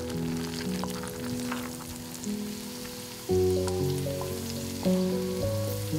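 Food frying in hot oil, with a steady sizzle and scattered crackles, under background music.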